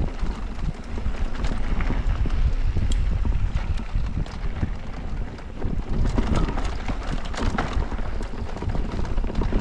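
Wind rushing over an action camera's microphone as an electric mountain bike rolls down a dirt bike-park trail, with frequent clicks and knocks from the bike rattling over rough ground.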